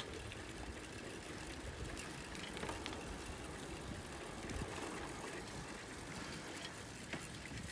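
Faint, steady outdoor background noise: a low rumble under an even hiss, with a few faint ticks.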